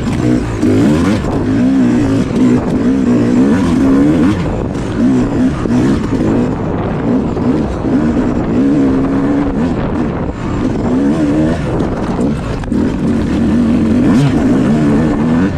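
Yamaha YZ250X two-stroke dirt bike engine under hard riding, its pitch rising and falling again and again as the throttle is worked on and off through rough ground.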